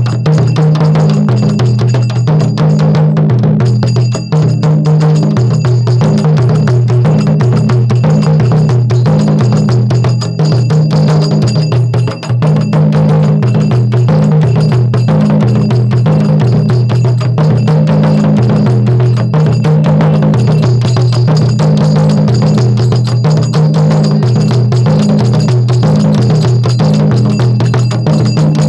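Nagara kettle drums played in a fast, steady rhythm over a steady low held chord, with no singing.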